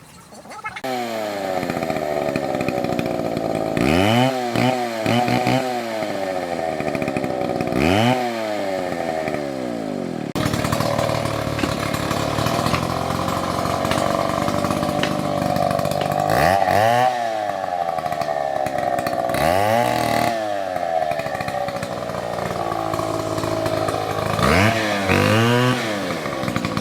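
Two-stroke Stihl MS720 chainsaw running, starting a little under a second in, its engine pitch repeatedly dipping and rising again as it works through wood.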